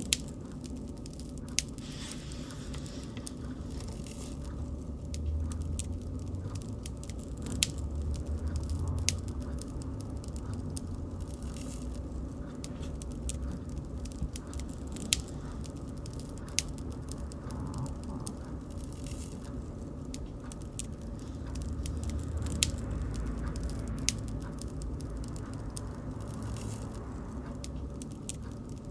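Bonfire crackling: sharp pops and snaps of burning wood scattered over a low steady rumble of the flames, the rumble swelling twice.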